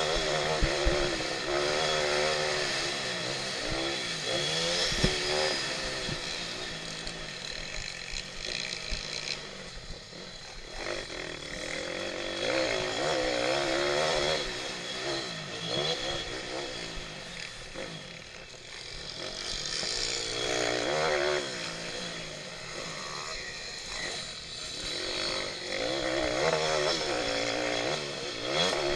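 Pitbike's small single-cylinder engine racing, revving up and down again and again as the rider accelerates, shifts and backs off through the track's corners.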